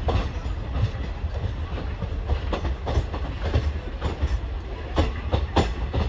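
Coaches of the 14645 Shalimar Express running along the track, with a steady low rumble and irregular clicks and knocks from the wheels passing over rail joints and points.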